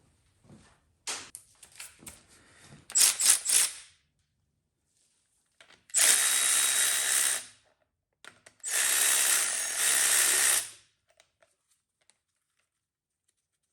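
Handheld power tool with a 9/16 socket run in two bursts of about one and a half and two seconds, spinning out connecting rod bolts on a small-block LT1. Before the bursts there are a few sharp metal clicks and clatter.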